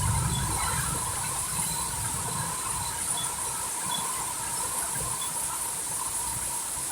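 Heavy rain falling in a steady hiss, with a low rumble of wind that fades out over the first few seconds.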